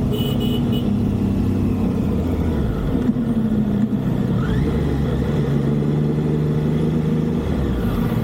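A vehicle engine running on the move, its note rising and falling as the speed changes. Three short high beeps sound near the start.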